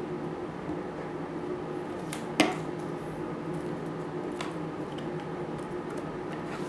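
Craft materials being handled on a table: a few light taps and one sharper click about two and a half seconds in, over a steady low hum.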